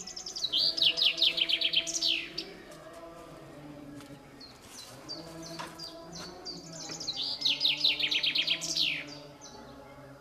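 A songbird sings two songs. Each is a quick run of about a dozen falling notes that ends in a downward flourish, and the second comes about seven seconds after the first. Low, steady tones sound faintly underneath.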